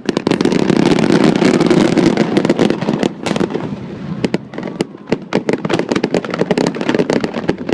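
Aerial fireworks going off in a rapid barrage of bangs and crackles, densest and loudest in the first three seconds, then a quicker scatter of separate sharp cracks.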